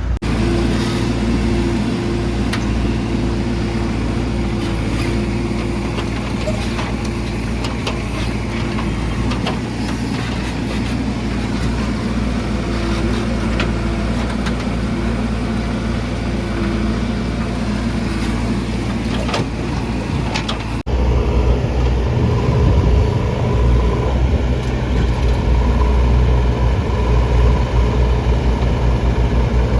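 Diesel engines of a backhoe loader and farm tractors running steadily, with scattered sharp clicks over the first two-thirds. About two-thirds of the way through the sound cuts abruptly to a louder, deeper engine.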